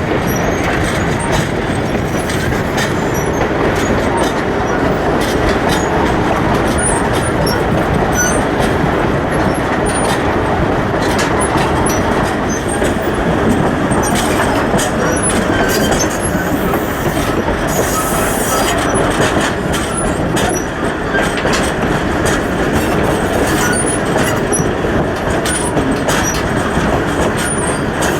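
Train running on the rails: a steady rumble of wheels on track, with scattered clicks and light wheel squeal.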